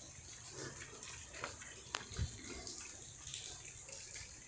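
Steady rain falling, an even hiss with a few sharp drip taps scattered through it.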